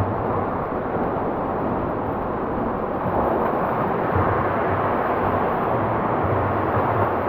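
Steady rushing wash of swimming-pool water and splashing, with no single sound standing out.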